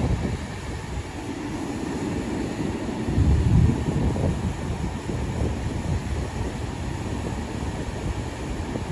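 Long Island Rail Road train running past, a steady low rumble of wheels on rail that swells briefly about three seconds in.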